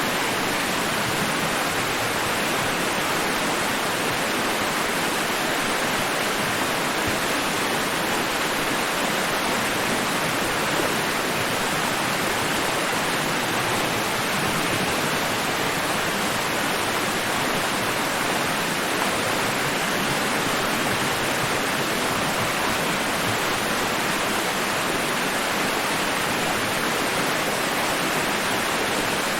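Steady white-noise hiss, an even rushing sound with no rise or fall and no wave surges.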